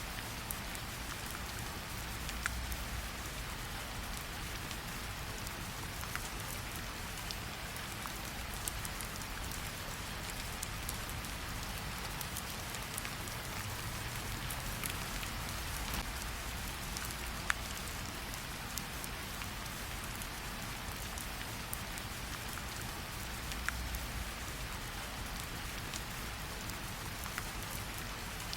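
Steady rain, with a scattering of single sharp crackles from a wood fire in a fireplace.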